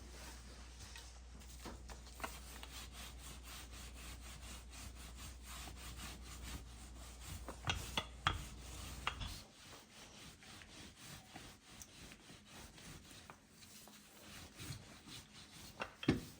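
Quiet kitchen handling: soft, repeated rubbing and scraping on a wooden surface, with a few light knocks about eight seconds in. A steady low hum stops about nine seconds in.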